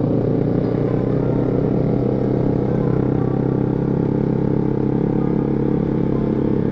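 Motor scooter's engine running at a steady cruise, heard from the rider's seat, with the engine note holding a constant pitch and level.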